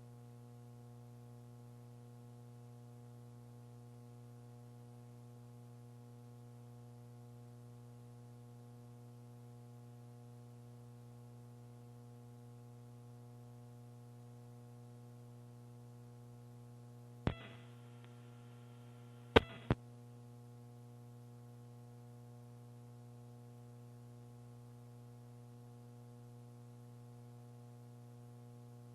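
Steady electrical hum with many overtones on the launch communications audio feed. A sharp click comes about 17 seconds in, then two more in quick succession about two seconds later.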